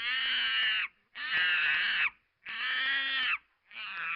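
Monkey calling: four long, high-pitched screeching calls of about a second each, with short gaps between them.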